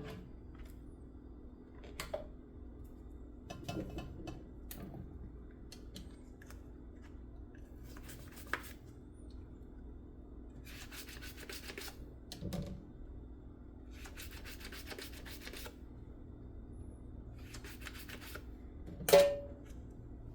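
Dishes being scrubbed by hand with a sponge in short rubbing strokes, with small clinks of dishware in between. One louder clatter of a dish near the end.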